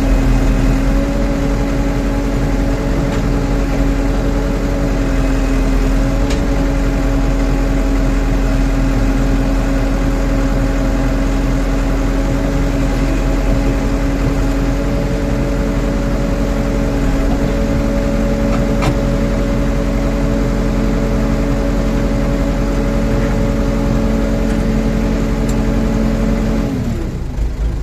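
Rondon backhoe's diesel engine running steadily at high revs while the machine works. About a second before the end the revs drop and the engine note falls.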